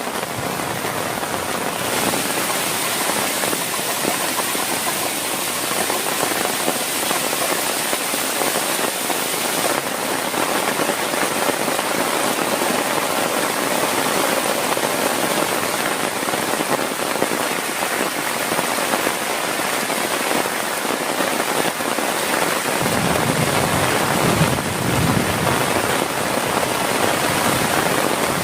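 Heavy rain falling steadily as a dense, even hiss. A low rumble comes in for a few seconds near the end.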